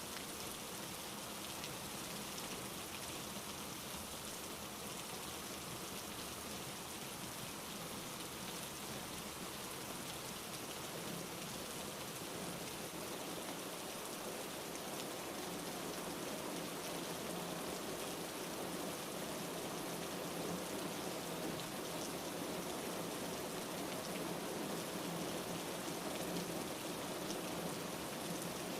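Steady rain falling on a surface, an even patter that grows slightly louder toward the end.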